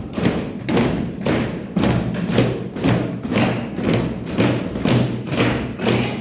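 A group of children keeping a steady beat together with repeated thumps, about three a second and slightly ragged, marking the pulse in a rhythm exercise.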